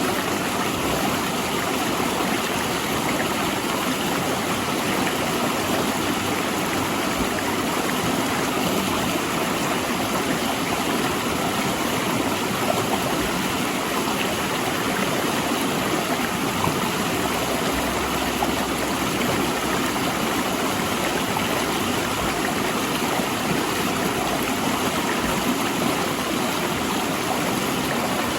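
A rocky mountain river rushing steadily between large boulders.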